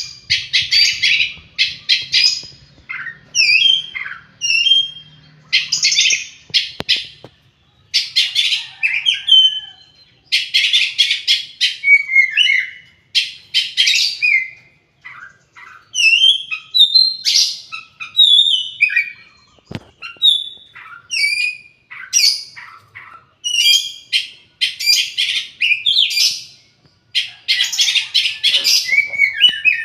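Oriental magpie-robin singing vigorously in varied phrases. Clear whistled notes and glides alternate with harsh, raspy chattering bursts, with short pauses between phrases.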